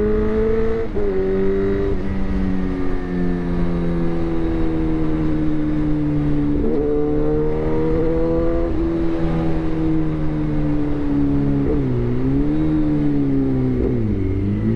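Suzuki GSX-R1000 inline-four running through a replica SC-Project aftermarket exhaust, ridden at mid revs. The engine note drops sharply about a second in, then sags slowly. It jumps up suddenly about six and a half seconds in and dips and recovers twice near the end, as with gear changes and throttle changes.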